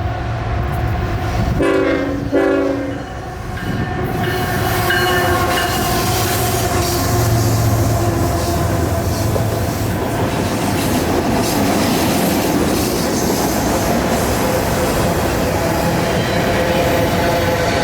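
Train horn sounding two short blasts, then the train rolling past steadily with a low rumble and the rattle and clatter of wheels on rail.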